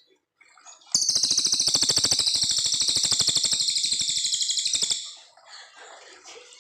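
Cililin coklat singing one long, rapid, even trill of about fifteen notes a second. The trill starts about a second in, lasts some four seconds and stops abruptly, followed by faint scattered chirps.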